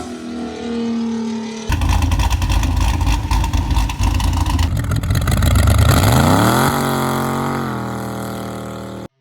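A car's high squeal gives way, under two seconds in, to a loud engine running hard. About six seconds in the engine revs up in a rising sweep and holds high, then cuts off suddenly near the end.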